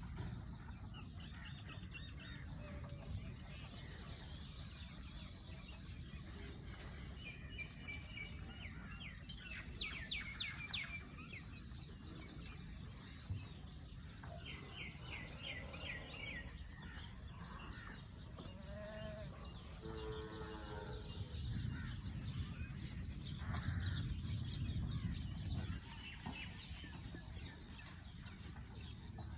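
Rural outdoor ambience: small birds chirping in quick repeated runs, with a lower animal call about twenty seconds in, over a steady low rumble.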